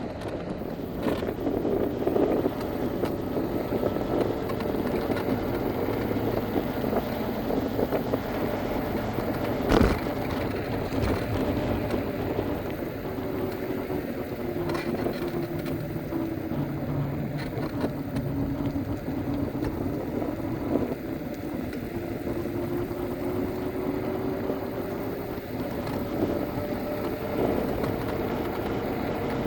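Electric scooter riding along: a motor whine that slowly falls and then rises in pitch with speed, over a steady rumble of wheels on the road, with one sharp knock about ten seconds in.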